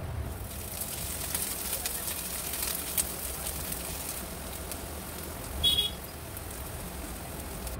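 Chicken patties sizzling and crackling in hot oil in a nonstick frying pan while being turned with a silicone spatula. A sharp tick comes about three seconds in, and a brief, louder high-pitched squeak a little before the end.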